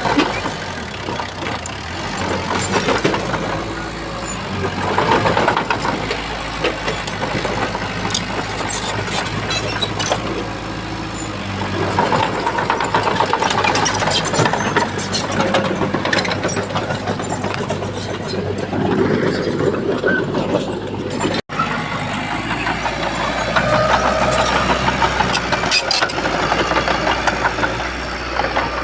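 Heavy diesel earthmoving machinery, a bulldozer working sand, running steadily with its engine swelling and easing under load and short clanks over it. The sound cuts out for an instant about two-thirds of the way through.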